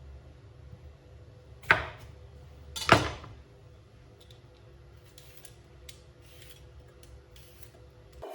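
Two sharp knocks a little over a second apart, then a run of light clicks and taps, over a low steady hum.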